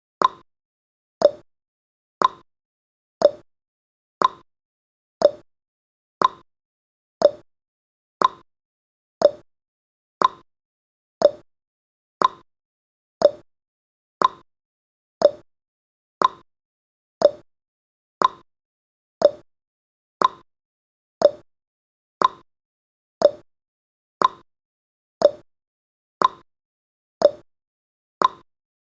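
Countdown timer's tick sound effect: a short, quickly fading tick repeated exactly once a second, steady and evenly spaced.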